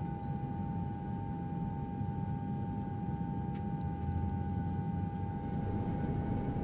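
Jet airliner engine sound effect: a steady low rumble with a constant high-pitched whine, like engines in cruise.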